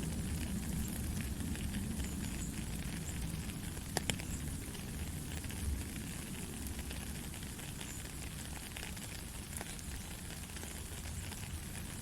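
Steady rain falling, a dense crackling patter over a low rumble, with one sharp tick about four seconds in.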